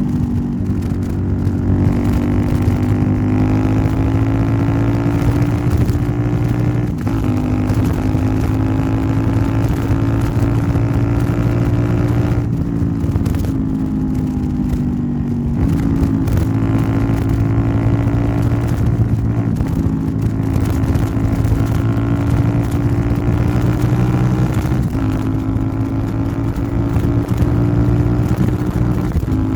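Royal Enfield Interceptor 650 parallel-twin engine running through a Nuke aftermarket exhaust while riding. The engine pitch slowly rises and eases off, with a few sudden steps in pitch along the way.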